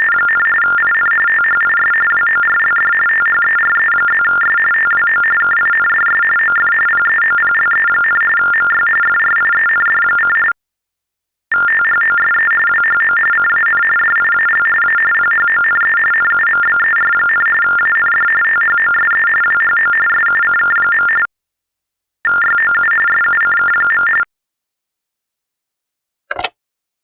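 US TTY (TDD) teletypewriter message over a phone line: rapid warbling between two tones, 1400 Hz and 1800 Hz, carrying 5-bit Baudot code at 45.45 baud. It comes in three stretches separated by pauses of about a second, the last one short, followed by a brief click near the end.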